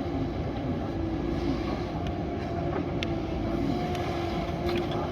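JCB backhoe loader's diesel engine running steadily under working load, with a held whine over the rumble and a few light clanks.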